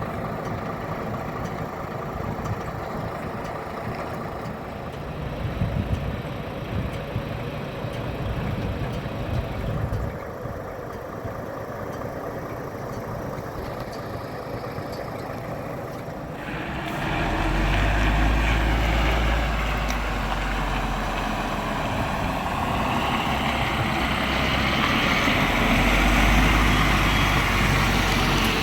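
Heavy diesel engine idling, then running noticeably louder with a deep drone and a broad hiss from about two-thirds of the way through.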